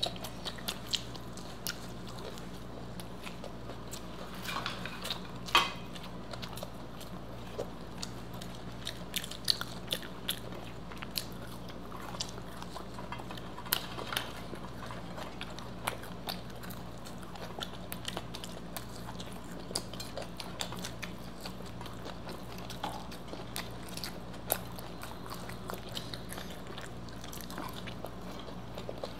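Close-miked chewing with repeated sharp crunches from fried snacks, pakoras and papad, with one louder crunch about five and a half seconds in.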